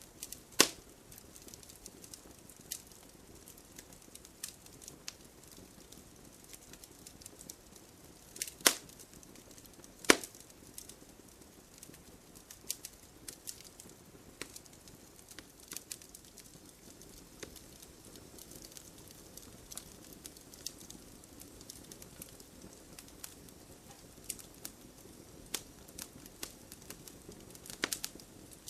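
Wood campfire crackling and burning, with irregular sharp pops and snaps over a soft steady hiss; the loudest pops come about half a second in, twice around eight and ten seconds, and a few near the end.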